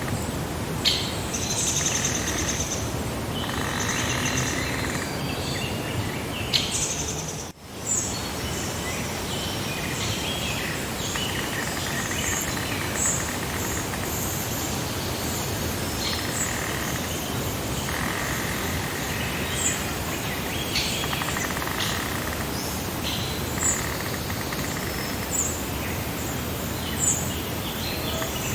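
Birds chirping and singing in short calls over a steady hiss of outdoor background noise, with a brief dip in the sound about seven and a half seconds in.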